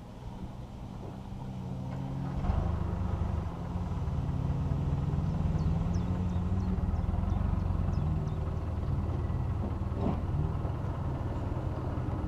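Off-road 4x4 engine running steadily, growing clearly louder about two and a half seconds in and staying loud.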